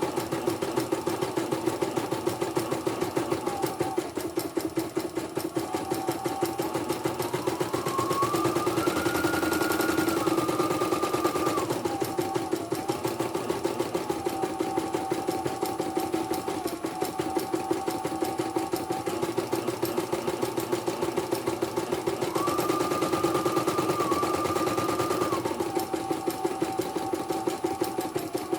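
CNY portable computerized embroidery machine stitching, a fast even run of needle strokes over a motor whine that rises in pitch twice, about a third of the way in and again near the end, then drops back. It is a test run after a repair.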